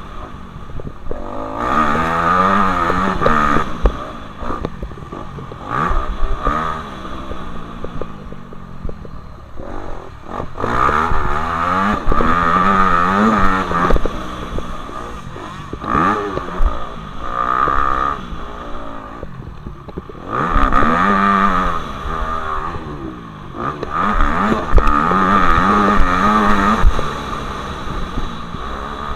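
Motocross bike engines revving hard and backing off again and again, the pitch climbing with each burst of throttle and dropping between them.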